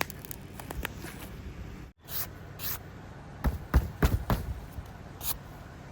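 Scattered short knocks and clicks of handling noise, clustered between about three and a half and four and a half seconds, with a brief cut to silence about two seconds in.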